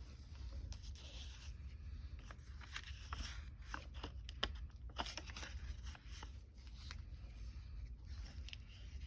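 Faint rustling and crinkling of the paper pages, tags and pockets of an altered book journal being handled and turned, with scattered soft clicks.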